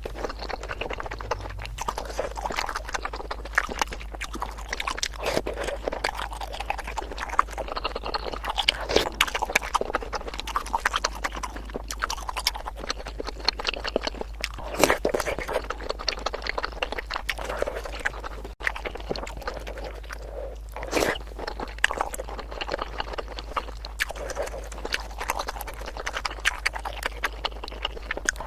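Close-miked eating sounds: wet chewing and biting of bakso meatballs in spicy sauce, a dense run of sharp mouth clicks and smacks.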